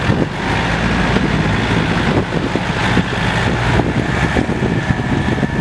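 Diesel tractor engine running steadily with a rapid clatter.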